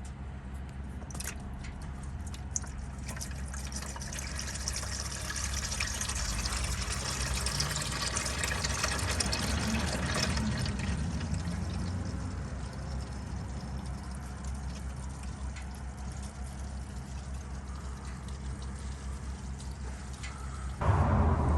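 Old engine oil mixed with engine flush pouring out of the opened drain plug of a 2UZ-FE V8's oil pan into a catch pan. The stream builds a couple of seconds in, runs strongest around the middle, then thins out.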